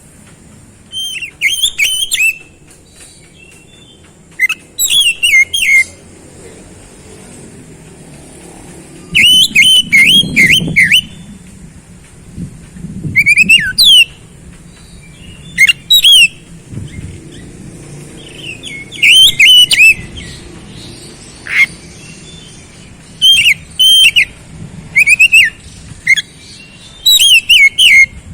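Oriental magpie-robin (kacer) singing in short bursts of fast, sweeping whistled notes, about a dozen phrases with brief pauses between them.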